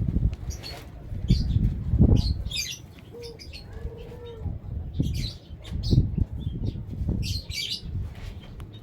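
Caged canary and white-headed munia fluttering and hopping about the cage, wing flaps sounding as uneven soft thumps, with short high chirps repeated between them.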